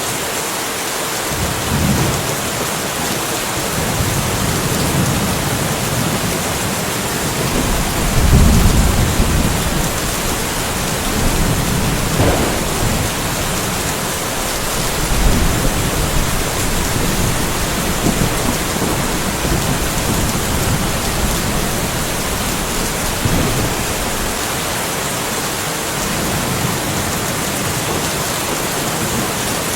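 Steady rain with rolling thunder rumbling low underneath, swelling strongest about eight seconds in and again near the middle.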